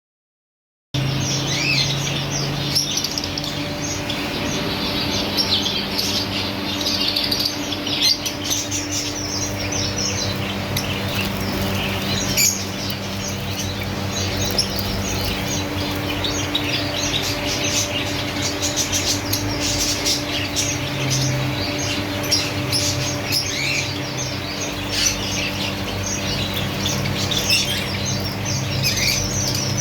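A crowd of small finches and canaries chirping and calling at once: a busy, continuous chatter of short high notes over a steady low hum, starting abruptly about a second in.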